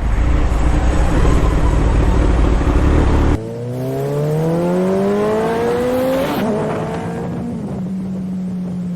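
Kawasaki Z900's inline-four engine under way, with heavy wind rush for the first three seconds. The wind noise then drops suddenly, and the engine note rises steadily as the bike accelerates, dips about six seconds in, and settles into a steady hum.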